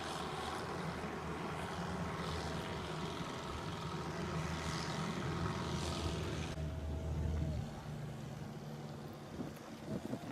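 A boat engine running steadily over a haze of wind and sea noise. The sound changes about two-thirds of the way through.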